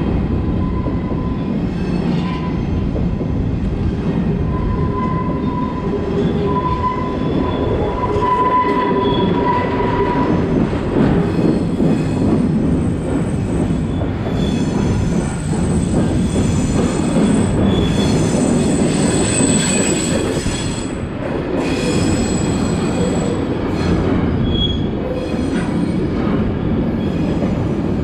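Empty intermodal well cars of a freight train rolling past close by: a steady heavy rumble of steel wheels on rail, with thin wheel squeals on top. A wavering mid-pitched squeal comes and goes for the first third, and higher, shriller squeals follow in the middle.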